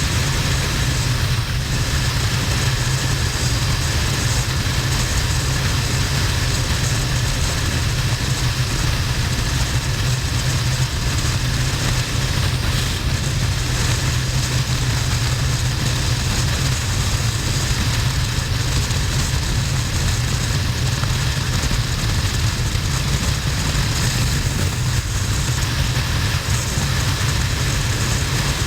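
Harley-Davidson XL1200N's air-cooled V-twin running steadily under way, a strong low drone mixed with wind rush over a bike-mounted camera.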